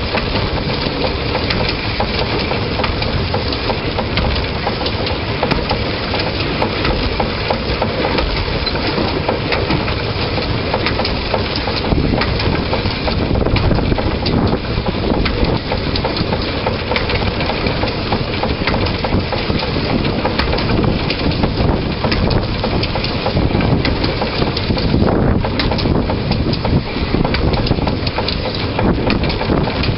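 Narrow-gauge train running along the track, heard close from the locomotive: a steady, loud rattle and clatter of wheels and running gear on the rails, with no break.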